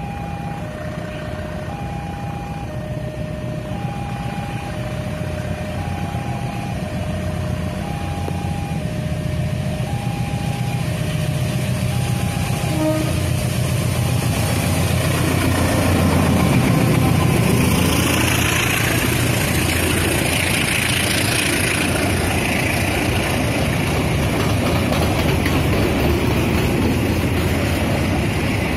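Level-crossing warning alarm sounding two alternating tones, about one a second, over the growing hum of an approaching diesel locomotive. About halfway through the locomotive passes at its loudest and the alarm fades under the train, then a long rake of tank wagons rolls by with steady wheel and rail noise.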